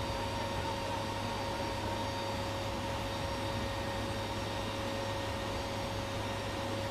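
Steady rush of wind and jet engine noise inside a C-17's cargo bay with the rear ramp open, with a faint steady whine running through it.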